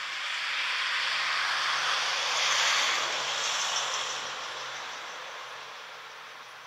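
A vehicle passing by: a rushing noise that swells to a peak about two and a half seconds in and then fades away, over a faint steady low hum.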